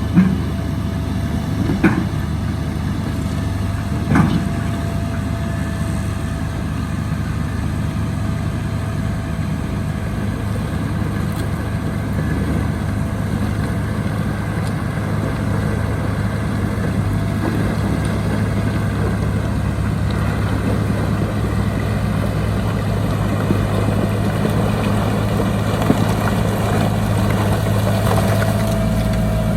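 Heavy diesel earthmoving machinery running steadily, a low engine hum with a steady whine over it. Three sharp clanks come in the first few seconds and one more near the end.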